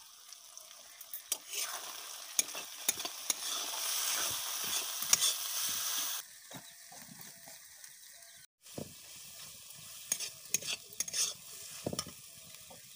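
Onion, tomato and ground spices (turmeric and chilli powder) sizzling in oil in a metal kadai while a metal spatula stirs and scrapes the pan, with sharp clicks of the spatula against the metal. The masala is being fried; the sizzle is loudest in the first half and drops off suddenly about six seconds in, leaving quieter frying and bursts of scraping.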